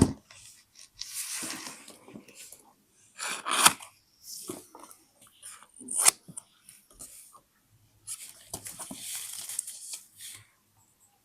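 Paper being handled for a scrapbook: irregular rustling and crinkling, with a sharp click about six seconds in.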